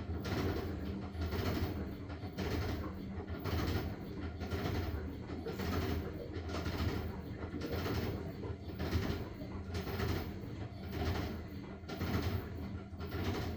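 LG washing machine washing a load of blankets: the drum turns them with a rhythmic swish roughly once a second over a steady low motor hum.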